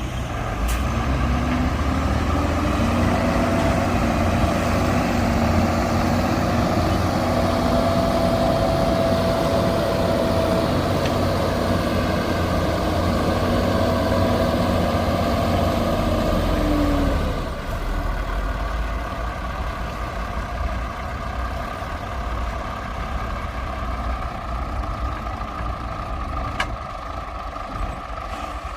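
Heavy diesel truck engine running hard with a steady whine over it. About seventeen seconds in, the whine stops and the engine drops back to a quieter, lower running.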